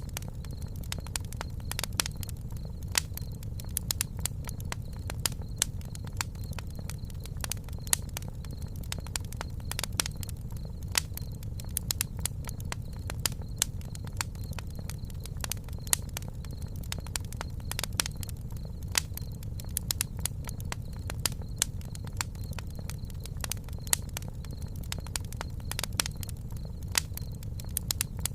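Campfire crackling: irregular sharp pops and snaps, several a second, over the steady low rumble of the burning fire.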